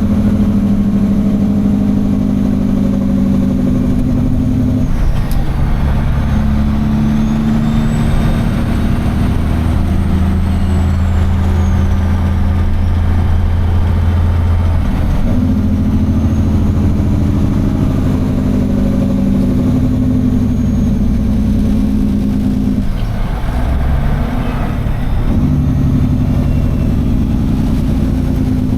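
Semi truck's diesel engine running while the truck moves slowly, its note changing several times, about five, fifteen and twenty-three seconds in.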